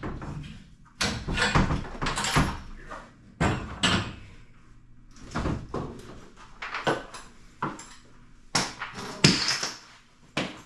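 A series of irregular knocks and clanks, about a dozen spread over several seconds, from hardware and tools being handled during garage door torsion spring work.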